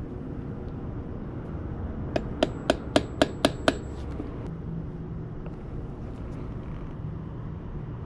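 A quick run of about seven light, ringing metal-on-metal taps, roughly four a second, over a steady low background hum.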